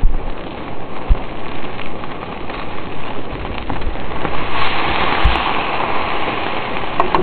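Rain falling steadily, a continuous hiss with a few dull low thumps.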